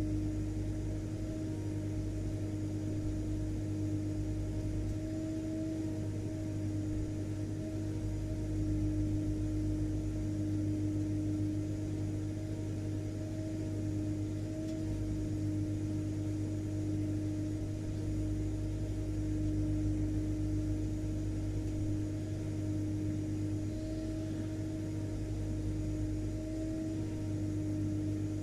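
Vacuum cleaner motor running steadily: a constant mid-pitched drone over a low rumble and a light hiss, with no change in speed.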